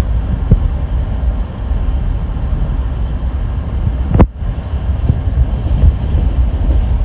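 Steady low rumble of a moving passenger train heard from inside the carriage, with a few faint knocks and one sharp click about four seconds in, after which the sound briefly dips.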